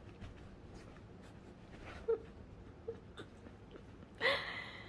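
A young pet makes faint, short squeaky whimpers, two of them about two and three seconds in, followed by a louder, fuller call near the end.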